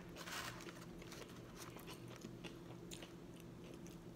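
Faint close-up eating sounds: hard, dry gyro meat being bitten and chewed, with scattered small clicks, after a short rustle of the foil wrapping near the start.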